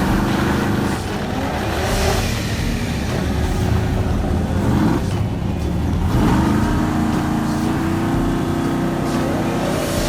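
A car's 5.0-litre engine revving and pulling, its pitch rising several times: near the start, about two seconds in and about six seconds in. Between the rises it holds a steady pitch.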